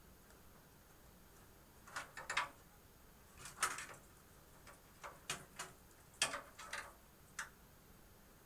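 Irregular clusters of sharp plastic clicks and taps of a power cable and its connector being handled and plugged in inside a computer case.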